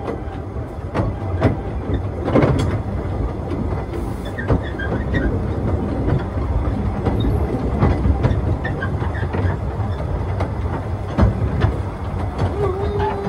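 Narrow-gauge railway carriage running along the track: a steady low rumble with irregular sharp clicks of the wheels over the rail joints.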